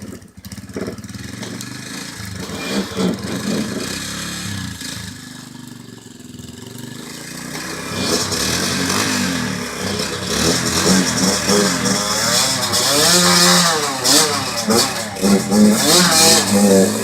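Motorcycle engines running and revving. They grow louder about halfway through, with the pitch rising and falling as the throttle is worked.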